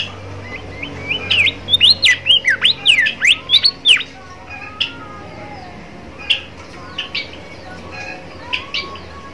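Small songbird singing a fast run of sharp, whistled notes that sweep up and down, loudest in the first half. It then thins to sparse single chirps, with fainter lower warbling from another bird behind it.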